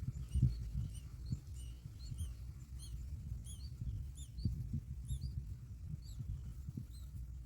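Baby birds in a nest cheeping: a steady series of short, high, thin cheeps, about two a second, over a low rumble.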